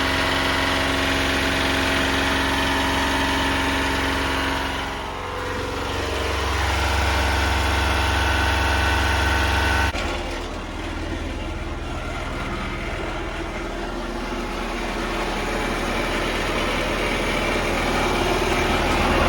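A vehicle engine idling steadily. About ten seconds in the sound changes abruptly and becomes quieter and less even.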